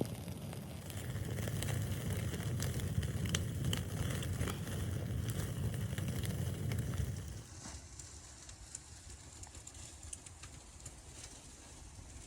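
Wood fire crackling over a low rumble; the rumble drops away suddenly about seven seconds in, leaving fainter, scattered crackles.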